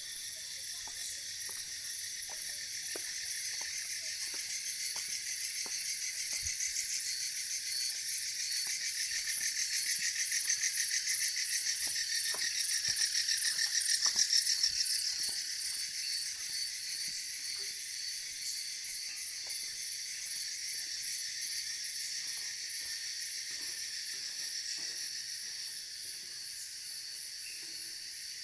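Dense chorus of insects buzzing with a rapid pulsing trill. It swells louder in the middle and then eases off.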